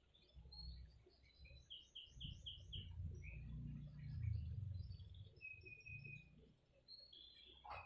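Small birds chirping in short high notes, with a quick run of about five repeated chirps about two seconds in and a longer held note near the end, over a faint low rumble.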